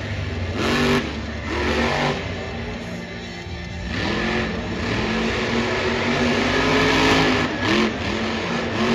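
Monster truck's supercharged, alcohol-burning engine revving hard several times, its pitch climbing and dropping with each blip of the throttle, over a wash of arena noise.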